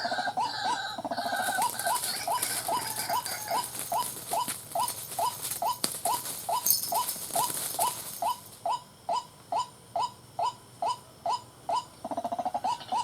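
White-breasted waterhen (ruak-ruak) calling: a long run of short, repeated notes, about three a second, which space out a little in the last few seconds. A high hiss sits under the calls for the first half.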